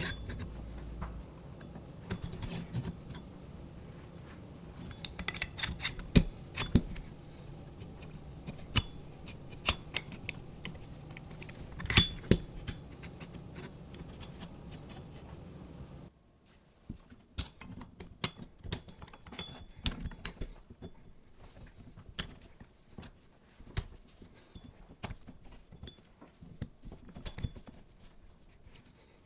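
Irregular clinks, taps and knocks of small metal parts and tools being handled on a workbench, a few of them sharper. A steady background hum cuts off abruptly about halfway through.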